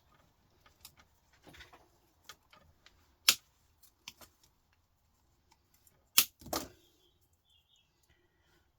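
Scattered light clicks and taps of small metal and plastic computer scrap parts being handled, with two sharper snaps, about three and six seconds in, the second followed by a short rustle.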